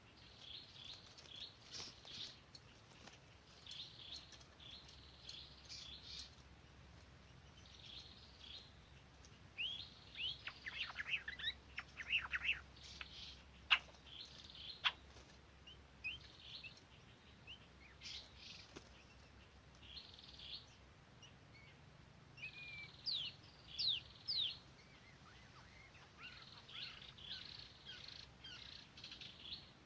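Birds chirping and whistling in scattered bursts of short calls, many sweeping downward in pitch, with two sharp clicks near the middle.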